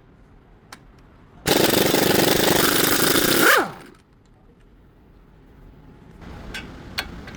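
Pneumatic impact wrench hammering for about two seconds, then winding down with a falling whine as the trigger is released. A few light metallic clicks follow near the end.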